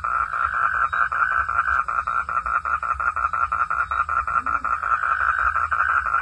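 Frogs calling in a dense night chorus: a steady, rapid pulsing of about ten pulses a second, with a low rumble underneath.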